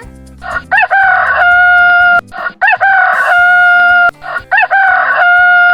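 Rooster crowing three times, a cock-a-doodle-doo in which each call rises briefly and then holds one long, steady note.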